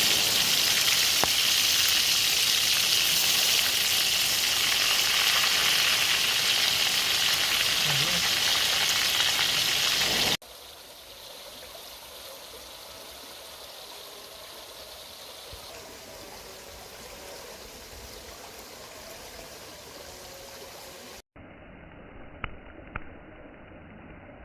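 Food frying in oil with a loud, steady sizzle, which cuts off abruptly about ten seconds in. After it comes a much quieter steady rush like running water, and near the end a few sharp clicks.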